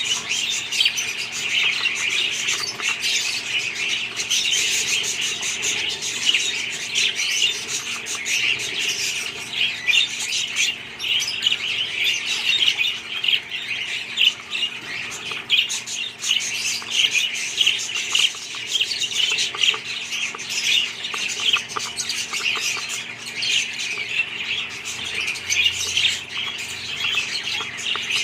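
A flock of budgerigars chattering and chirping continuously, many birds calling over one another in a dense, unbroken stream.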